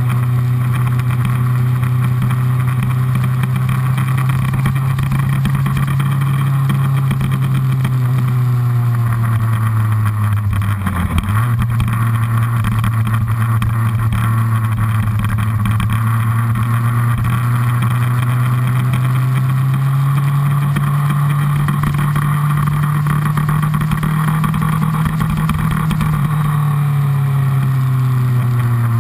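Honda CBR1000RR's inline-four engine running hard on track, heard from the fuel tank under a steady rush of wind. The engine note sinks slowly, breaks briefly about a third of the way in, then climbs gradually for most of the rest before easing off near the end.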